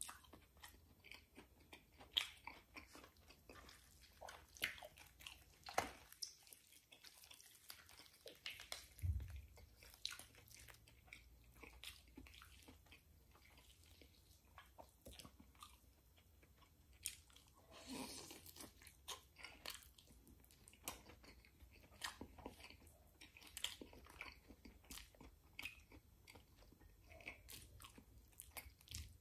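Faint close-up chewing and mouth smacks of a man eating rotisserie chicken, with irregular small clicks and wet sounds as the meat is pulled apart by hand and bitten.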